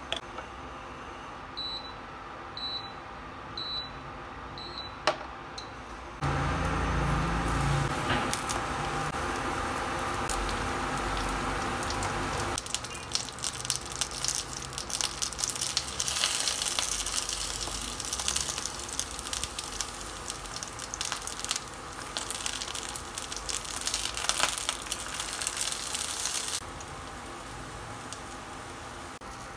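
A few short, evenly spaced beeps, such as an induction cooktop's touch panel gives, then eggplant slices sizzling and crackling in oil in a frying pan, with a spatula scraping and turning them. The sizzling stops suddenly a few seconds before the end.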